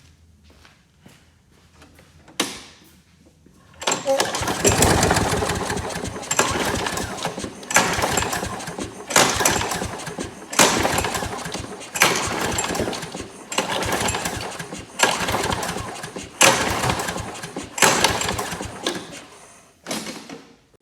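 Craftsman 650 series push mower's single-cylinder engine being cranked on its recoil pull-starter, about a dozen pulls, roughly one every second and a half, each spinning up and dying away without the engine catching. Spark is present, so the no-start is put down to the carburetor.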